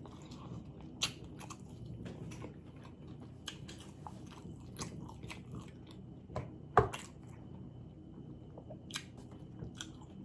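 Close-miked chewing and biting on an Italian beef sandwich: scattered wet mouth clicks and smacks, with one louder smack about two-thirds of the way through, over a faint steady low hum.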